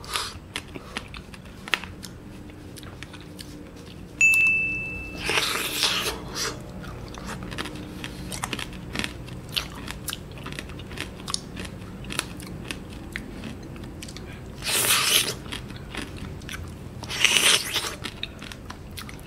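Close-miked biting and chewing of a candied mango (tanghulu): small crackles of the thin, poorly stuck sugar shell, with louder bites about 6, 15 and 17 seconds in.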